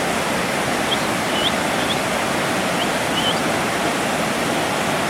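Waterfall's steady rush of falling water, with a few short high chirps over it between about one and three and a half seconds in.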